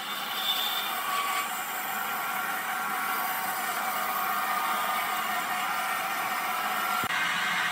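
Sawmill machinery running with a steady whirring noise and faint high tones; the sound changes abruptly about seven seconds in.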